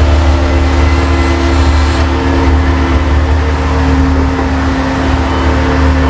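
An engine running steadily at a fairly constant speed, with a strong low hum.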